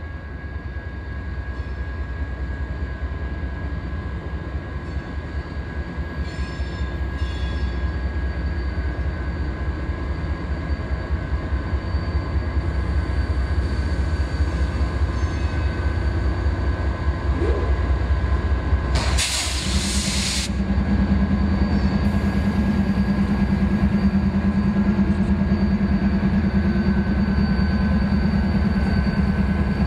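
Diesel locomotives of a passing train rumbling, growing steadily louder as they approach. About two-thirds of the way through there is a loud rushing hiss lasting about a second and a half, after which a steady low hum sets in.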